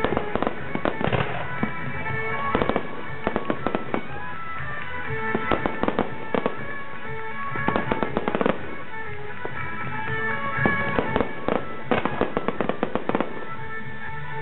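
Aerial fireworks bursting in quick clusters of bangs and crackles every couple of seconds, over the show's accompanying music.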